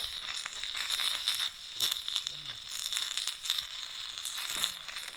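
Campfire wood crackling, with irregular sharp snaps and pops, over a steady high-pitched hiss.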